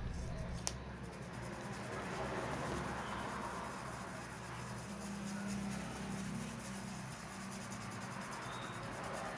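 Faint steady hiss with a low hum underneath, and a single brief click about a second in.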